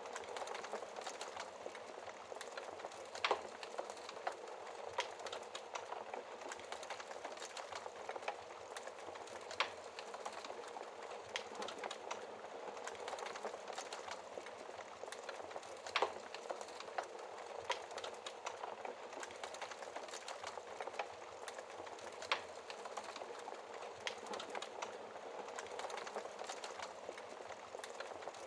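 Fire in a fireplace crackling: a steady soft hiss with frequent small crackles and a few louder, sharp pops scattered throughout.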